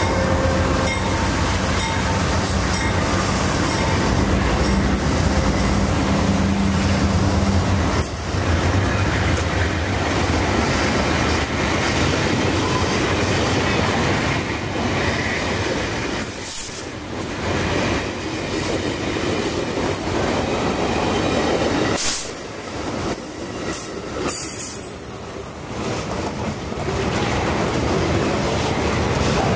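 Railcars rolling past close by: a steady rush of steel wheels and rail noise. First come the passenger cars of an Amtrak train, then, after a dip in level with a few sharp bangs and squeals, a freight train of boxcars passes.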